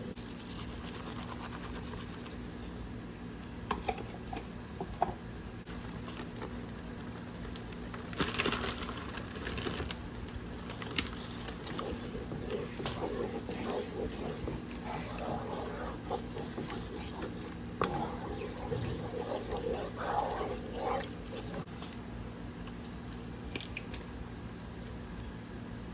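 A person eating on a mukbang: chewing and mouth sounds with a few sharp clicks of utensils, over a steady low hum.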